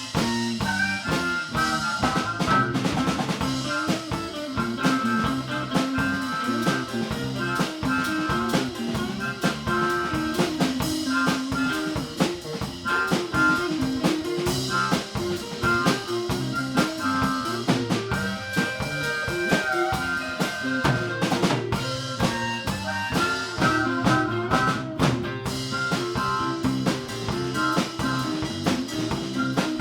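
A live band playing an instrumental stretch of an upbeat song: drum kit with rimshots and bass drum under a bass line and guitar.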